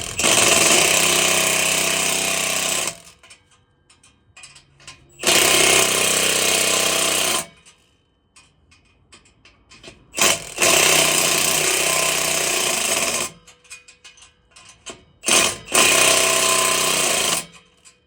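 A power tool run in four bursts of about two to three seconds each, with short pauses between, fastening a part of a leaking exhaust back in place.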